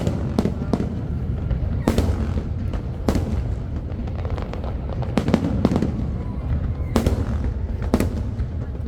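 Aerial fireworks shells bursting: about ten sharp bangs at irregular intervals, a few in quick succession, over a steady low rumble.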